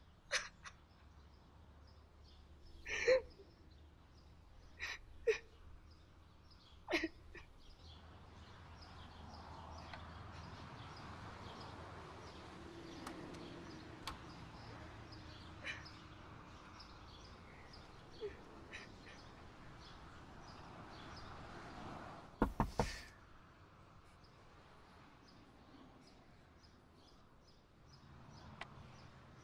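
A woman sobbing in short gasping bursts, with faint bird chirps behind. About 22 seconds in, a quick run of three or four sharp knocks is the loudest sound.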